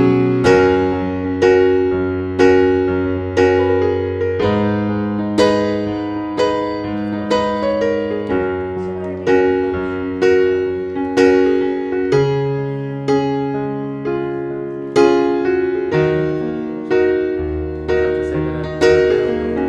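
Piano music, played slowly, with chords struck about once a second over held bass notes.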